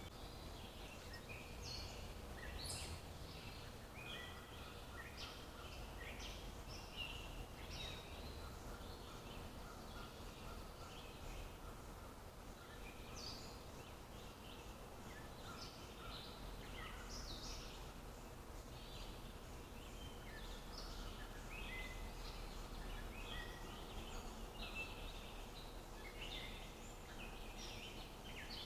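Several small songbirds chirping and trilling on and off, over a low steady background hum of outdoor ambience.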